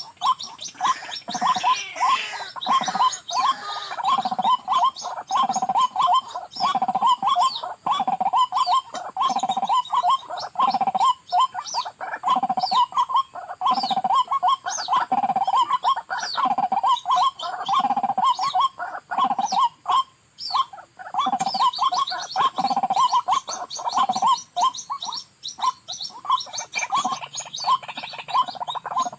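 White-breasted waterhen (ruak-ruak) calling: rapid, repeated calls with a lower note about once a second, over a steady high insect whine.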